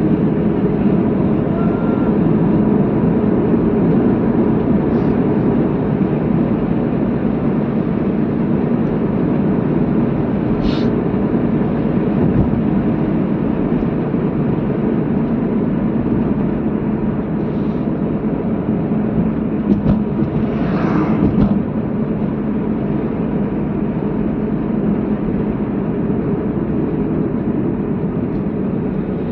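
Steady road and engine noise of a moving car heard from inside the cabin, with a brief whoosh about twenty seconds in.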